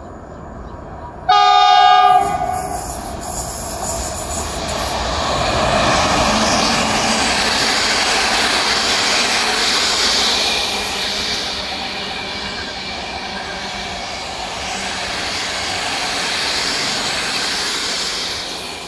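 A train horn sounds once, briefly, about a second in. A train then passes, a steady rush of wheels on rails that swells and then eases off.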